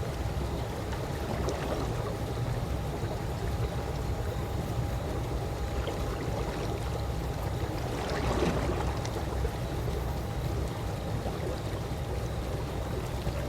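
Calm pool water moving steadily, with a slight swell about eight and a half seconds in.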